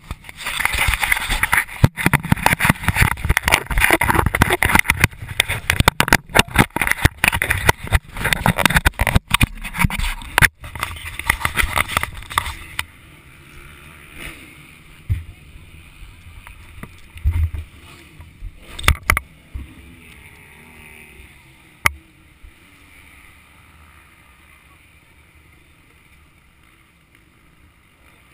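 Motocross bike riding, heard muffled through an action camera's housing with heavy wind buffeting and rattling knocks for about the first 13 seconds. After that it goes much quieter, with a few scattered thumps.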